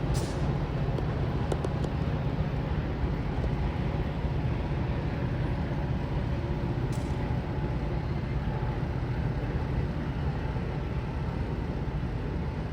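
A train running past with a steady rumble and a low hum, and a few brief clicks.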